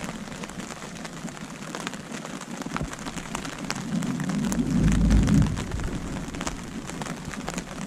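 Rain pattering on a bivvy canopy as scattered light taps. A low rumble swells and fades about four to five seconds in.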